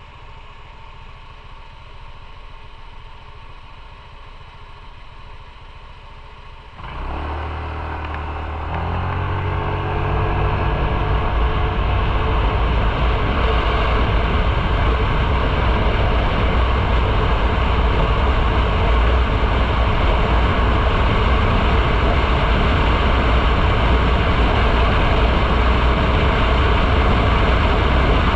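Motorcycle engine ticking over quietly, then about seven seconds in pulling away and accelerating, its pitch rising. It settles into steady riding with engine, wind and road noise.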